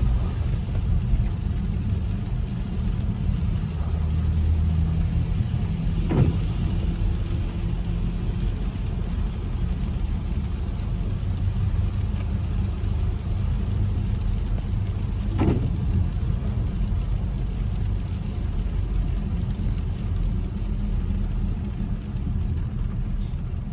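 Steady low engine and road rumble heard from inside a moving car, with two brief knocks, about six seconds in and again after fifteen seconds.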